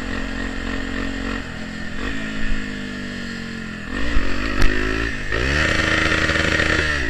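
Honda XR 250 Tornado's single-cylinder four-stroke engine through a loud aftermarket Pro Tork exhaust, on the move. The engine speed holds steady, falls away off the throttle, then climbs and rises sharply to high revs, held briefly before dropping near the end.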